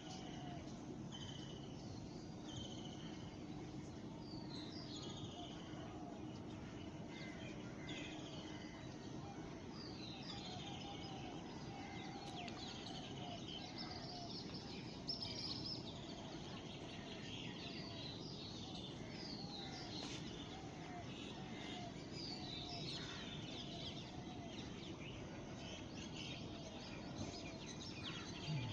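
Several small birds chirping and trilling together in short high notes, with a lower call repeating over and over, over a steady background hum.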